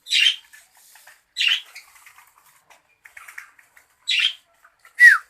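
Parrots squawking: four short harsh squawks a second or more apart, the last and loudest sliding down in pitch, with softer chatter between them.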